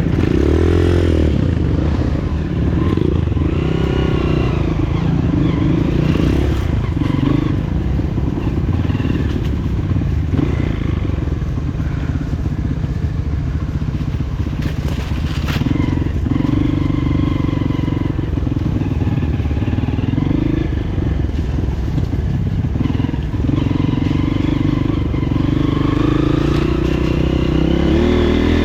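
Honda CRF230F's single-cylinder four-stroke engine running while ridden. Its engine speed rises and falls in steps, with some clatter mixed in.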